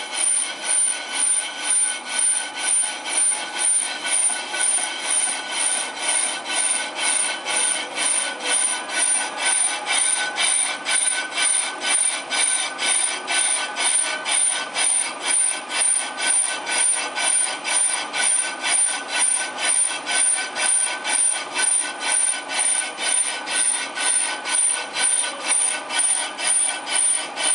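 AMMCO brake lathe resurfacing a brake, its cutting bit scraping the spinning braking surface. The scraping pulses evenly about twice a second over a steady high whine.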